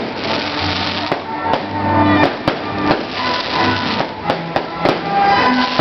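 Fireworks going off, a scattering of sharp bangs and pops, over music with held notes and a low beat.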